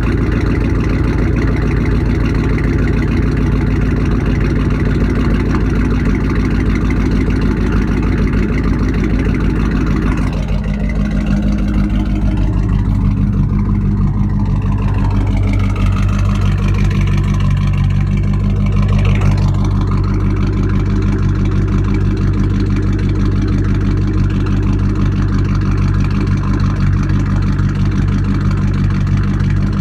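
2002 GMC Sierra's 5.3L Vortec V8 idling during warm-up after a cold start, through straight-piped exhaust with no mufflers. The note is steady, and about ten seconds in its rasp thins out and the low drone evens out.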